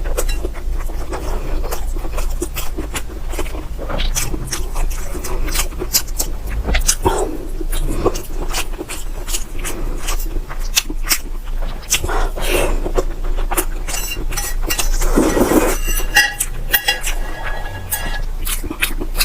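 Close-miked eating of spicy instant noodles: wet chewing and slurping with many sharp clicks and occasional clinks of utensils on the bowl.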